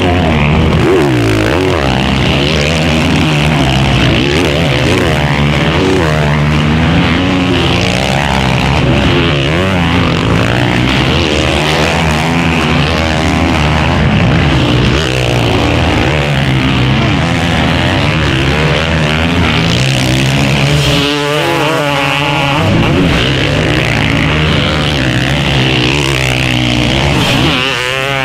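Several motocross bikes racing, their engines revving up and down over one another as they pass.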